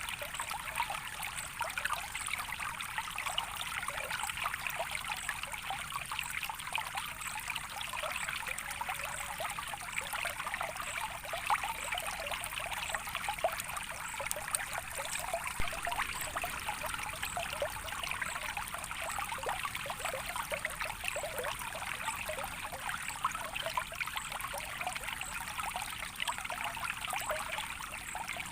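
A small stream of water flowing steadily, trickling and babbling with many small splashes.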